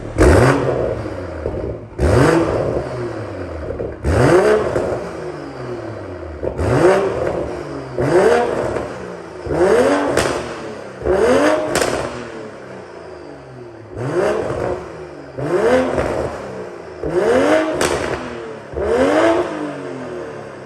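BMW M340i's turbocharged 3.0-litre inline-six, through an Akrapovič and M Performance exhaust, revved in about a dozen quick blips, each rising and falling in pitch, with a few sharp cracks from the exhaust.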